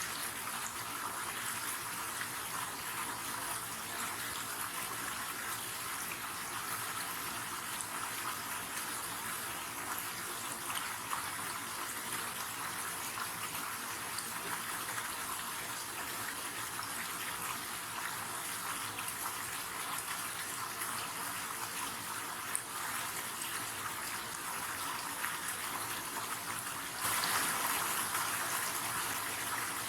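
River water flowing and splashing in a steady, even rush, stepping up suddenly louder for a couple of seconds near the end.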